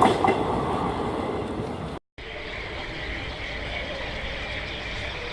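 Diesel-hauled train running past, its rumble fading over the first two seconds, then a sudden cut to a quieter, steady background rumble with faint steady tones.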